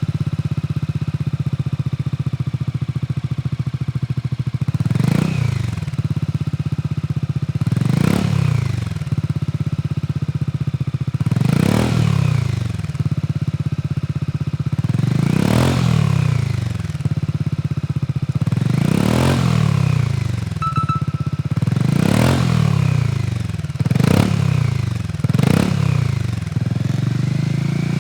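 Honda Forza 250 single-cylinder scooter engine idling through a BEAMS GT-CORSA full exhaust with heat-titanium silencer, blipped eight times with quick revs that rise and fall back to idle every few seconds.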